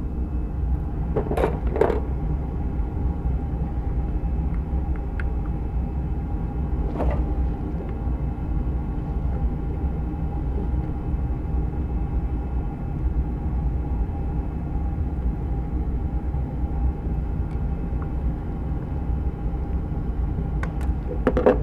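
Steady low mechanical hum, with a few brief knocks or clicks about a second and a half in, at two seconds and about seven seconds in.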